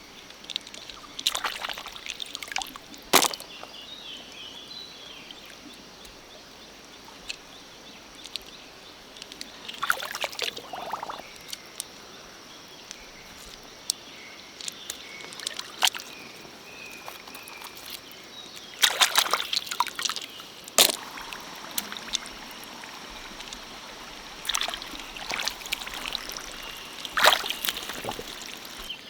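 Water sloshing and splashing in a shallow stream in irregular bouts, over the steady run of the stream.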